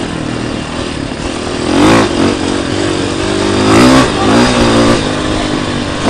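Dirt bike engine running, revved up and eased off twice, about two seconds in and again about four seconds in.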